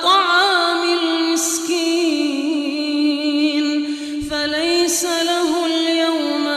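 A man reciting the Quran in a slow, melodic tajweed style, drawing out long wavering notes, with a short break for breath about four seconds in.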